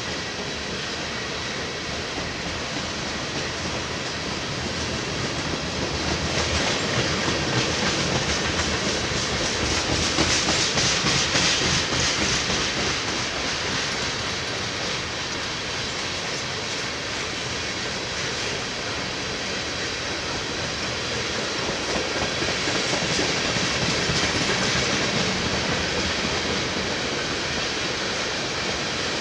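Train cars rolling past on the track: a steady rumble and hiss with rapid wheel clicks, loudest about ten seconds in and swelling again near the end.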